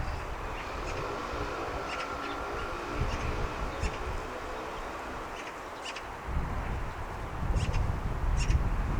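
Scattered short bird chirps over wind rumbling on the microphone. The wind eases for a few seconds and picks up again about six seconds in, and a faint steady hum sits underneath in the quieter middle stretch.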